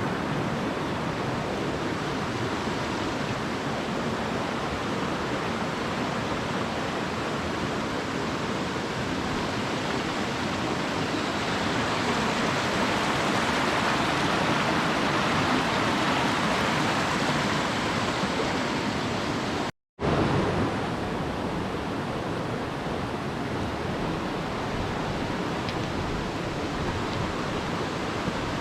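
Mountain stream rushing: a steady wash of flowing water, broken by a moment of silence about twenty seconds in.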